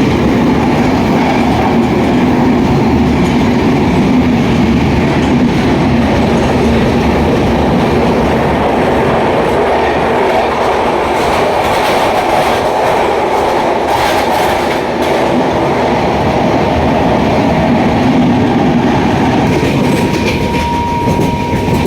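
Train running steadily along the track, heard from on board: a continuous rumble of wheels on rail with a few sharp clicks in the middle. A thin steady tone comes in near the end.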